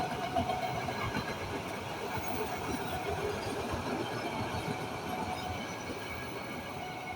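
KAI Kamandaka passenger train passing at fairly high speed: a steady rumble and rapid clatter of steel wheels on the rails, with faint thin ringing tones coming and going.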